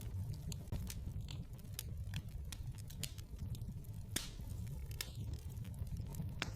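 Wood fire in a fireplace crackling: irregular sharp pops and snaps, one louder about four seconds in, over a steady low rumble.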